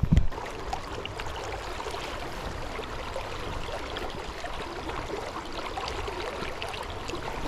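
Flowing river water, a steady rushing and gurgling around the raft, with a short low thump right at the start.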